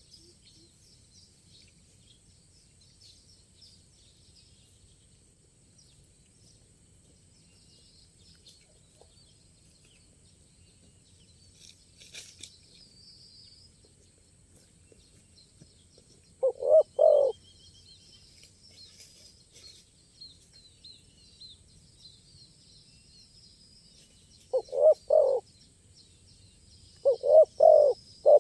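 Spotted dove cooing: three phrases of three or four quick notes each, about 16 seconds in, about 25 seconds in and near the end. Faint chirping of small birds runs underneath.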